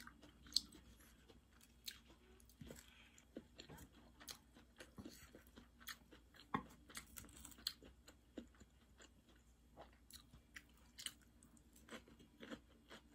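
Faint crunchy chewing of raw cabbage salad, with scattered sharp clicks of wooden chopsticks against a ceramic plate.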